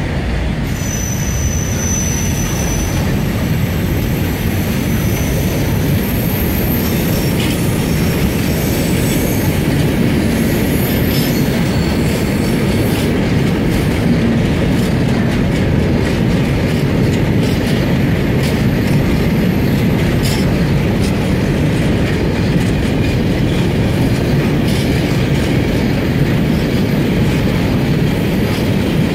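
Coal freight train's wagons rolling slowly past, a steady heavy rumble with wheel clicks over rail joints. Thin high wheel squeal sounds for roughly the first ten seconds, as the wagons come off the siding onto the main line.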